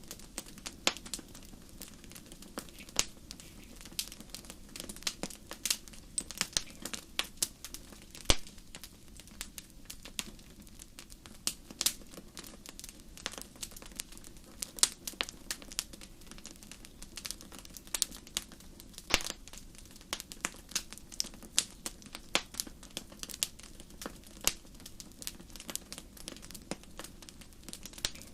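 Wood fire crackling in a fireplace: irregular sharp pops and snaps, several a second and unevenly loud, over a low steady hiss of the burning.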